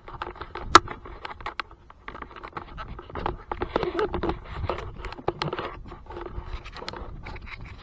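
Handling noises: irregular scraping, rustling and clicking, with one sharp click a little under a second in.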